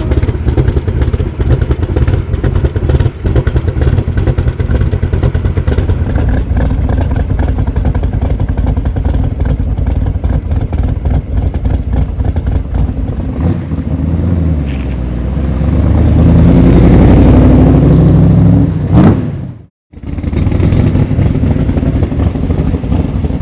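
Roush 427SR V8 in a Superformance MKIII Cobra running through ceramic-coated side pipes, with a fast, choppy exhaust beat. About two-thirds of the way in it swells to its loudest with a rising and falling sweep, cuts out abruptly for a moment, then comes back running.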